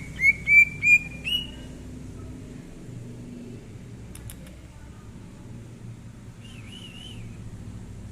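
Green leafbird (cucak ijo) song: a quick run of five loud rising whistles, then a few seconds later a short wavering warbled phrase. A steady low hum sits underneath.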